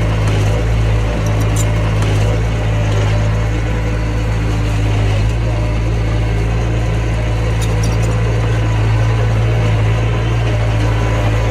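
Mini bulldozer's diesel engine running steadily at a constant pitch, with a few faint metallic clicks about a second and a half in and again near eight seconds.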